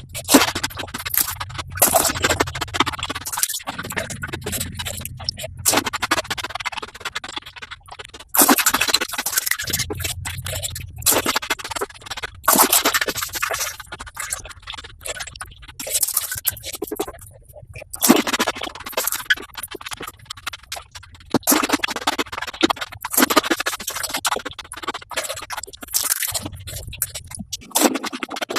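Eating sounds of golgappa (crisp puri shells crunched, with slurping and chewing) played at six times speed. They come out as a fast, scratchy crackle in quick bursts, with a low hum that switches on and off between clips.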